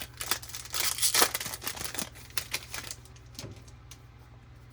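Baseball card pack and cards being handled: rapid crinkling and clicking of the wrapper and card stock, busiest in the first three seconds and then dying down.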